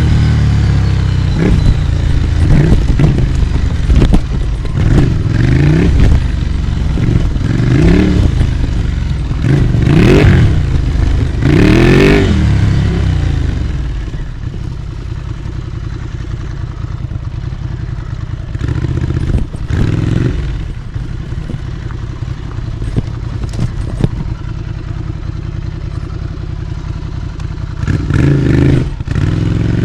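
Ducati Scrambler Icon's air-cooled 803 cc L-twin through an HP Corse GP07 exhaust with the baffle in, revving up and falling back again and again for the first dozen seconds. It then runs quieter at low revs with scattered clicks and knocks, and revs up again near the end.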